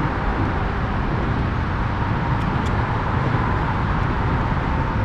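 Steady road traffic noise from nearby cars, an even rumble loud enough to drown out conversation.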